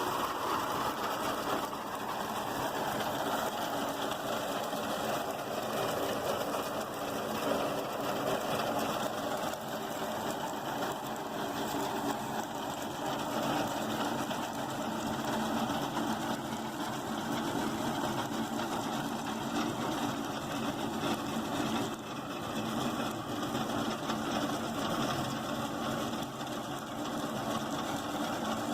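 Diesel tractor engine running steadily while driving a tractor-mounted reaper, with a fast mechanical clatter over the engine.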